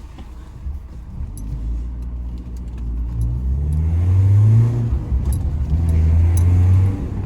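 BMW E36 318's four-cylinder engine accelerating, its note climbing in pitch, easing briefly, then pulling strongly again before dropping off near the end. Light rattling clicks run through it.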